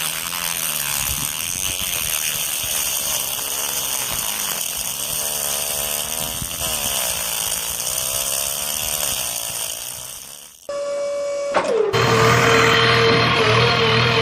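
A small electric motor whirring steadily with a strong hiss, its pitch wavering, for about ten seconds, then cutting off abruptly. Electronic music with a steady held tone follows near the end.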